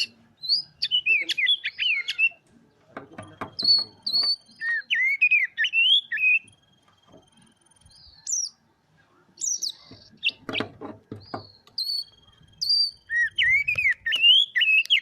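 Oriental magpie-robin (kacer) singing: strings of clear whistled notes that slide up and down, broken twice by rapid runs of harsh clicking notes.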